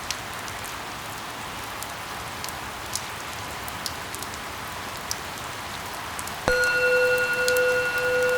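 Steady rain falling on a surface, with scattered individual drop ticks. About six and a half seconds in, a loud steady tone with overtones starts suddenly and holds over the rain.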